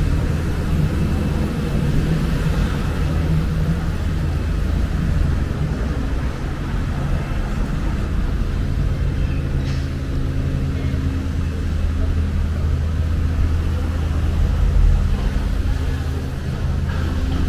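Wind buffeting the microphone: a steady low rumble with a low, even hum under it, and a few short ticks near the end.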